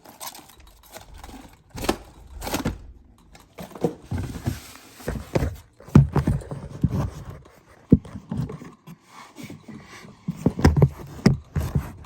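Irregular knocks, thumps and scraping as a box is handled, with a few sharp taps about six and eight seconds in.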